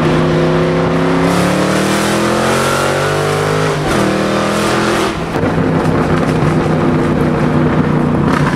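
A car engine accelerating hard. Its pitch climbs for about four seconds, drops at a gear change, climbs again briefly, then settles into a steady drone.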